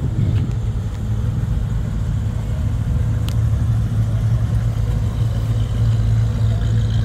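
Low, steady engine rumble from a first-generation Ford Mustang convertible rolling slowly past at close range.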